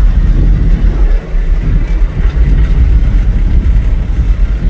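Loud, uneven low rumble of running vehicle engines, dipping briefly about a second in.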